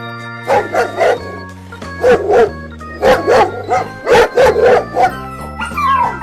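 A dog barking repeatedly in quick runs of short, sharp barks over background music with sustained notes; near the end a falling, howl-like cry begins.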